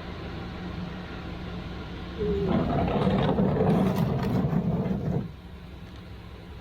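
Motor vehicle sound over a steady low hum, swelling loud for about three seconds in the middle and then dropping back.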